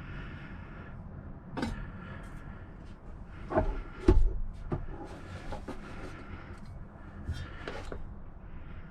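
Several knocks and clatters, like things being handled or a lid or panel opened and shut, the loudest pair about three and a half to four seconds in, over a steady low hum.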